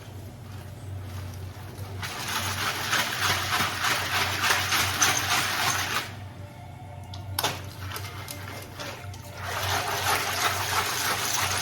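Shells being washed by hand in a basin of seawater: water sloshing and splashing in two long stretches with a pause in the middle, over background music.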